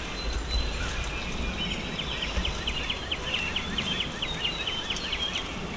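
A bird calling in a fast series of short, high repeated notes, about four a second, starting about two seconds in and stopping near the end, over a low outdoor rumble.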